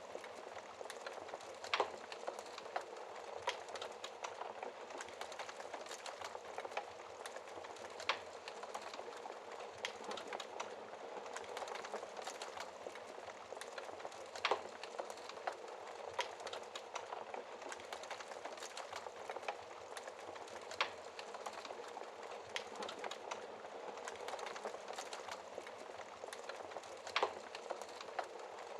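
Wood fire burning in a fireplace: a steady hiss and rush of flames with constant small crackles and occasional louder pops of the burning logs.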